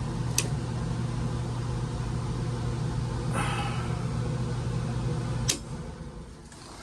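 Indoor air handler's blower motor running with a steady low hum, then a sharp click about five and a half seconds in as it is switched off and the hum stops. A lighter click and a brief rustle come earlier.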